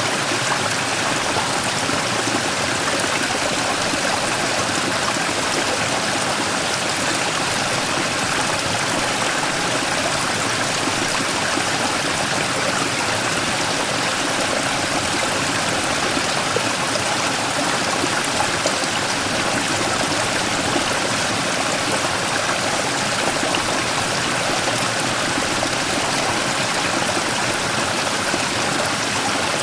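Mountain stream rushing and splashing over a large rock in a small cascade, a steady, unbroken water noise.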